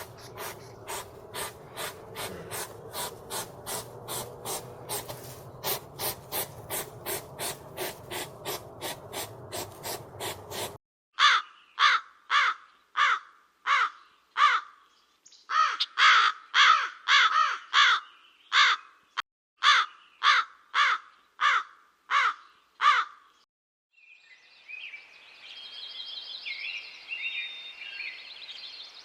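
A run of even ticks, about three a second, over a low hum; then loud, repeated harsh animal calls, about one to two a second, in two runs with a short break between; then high bird chirping near the end.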